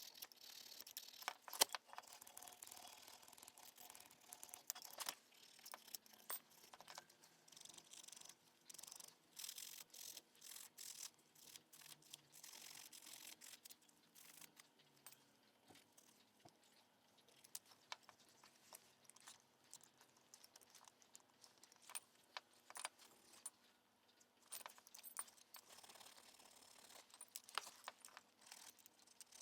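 Faint, scattered metallic clicks and clinks of hand tools and brake parts being handled during a rear brake caliper overhaul, with quieter stretches in between.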